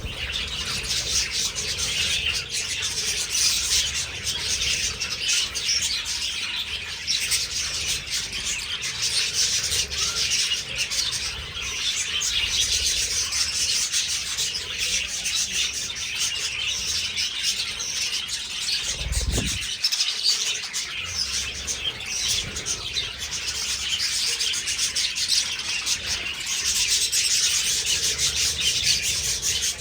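A flock of budgerigars chattering and chirping continuously in an aviary, many birds at once. There is a brief low thump about two-thirds of the way through.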